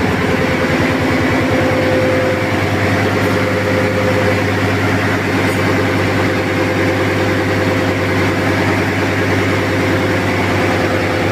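Yanmar 850 hp marine diesel main engine running at a steady speed, heard up close in the engine room as a loud, even hum with a fast firing beat.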